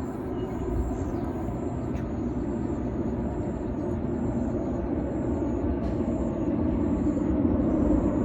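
A steady low rumble that grows slightly louder toward the end, with a faint high chirp repeating about every half second above it.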